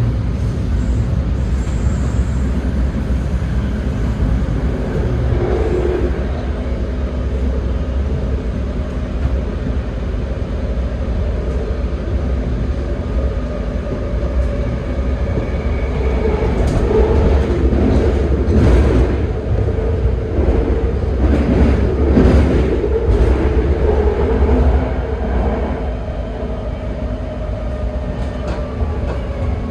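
BART train running with a steady low rumble and a held tone, and a run of sharp knocks from the wheels about halfway through.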